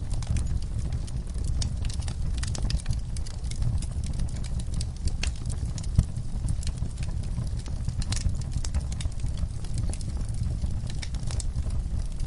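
Wood fire crackling in a fireplace: dense, irregular pops and snaps over a steady low rumble of the flames, with one sharper pop about six seconds in.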